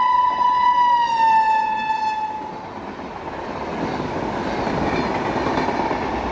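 Electric locomotive's horn sounding one long steady note that drops in pitch about a second in as the locomotive passes at speed, then fades. The rush of coach wheels on the track grows in its place as the train runs by.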